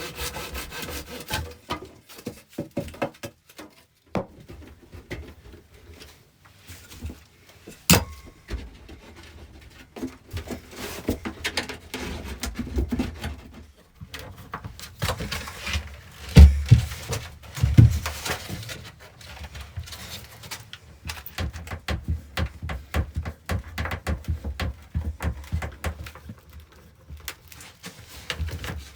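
Irregular knocks, clicks and scrapes of wood being handled, with two heavy thumps about halfway through.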